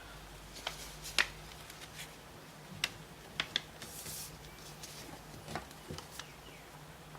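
Sheet of origami paper being folded and creased by hand: scattered crisp crackles and taps, with a brief rustle of the paper sliding about four seconds in.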